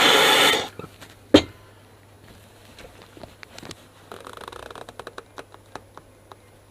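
A MAP gas torch flame hissing loudly, cut off about half a second in. A sharp metallic clank follows, then light scattered clicks and taps of work on the heated steel engine bar in the vise.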